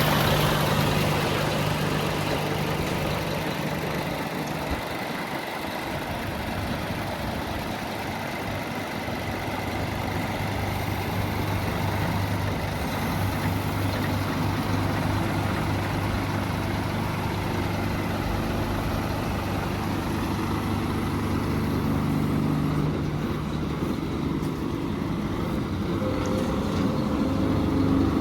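Scania P320 truck's diesel engine running steadily at idle, its note shifting in the last few seconds.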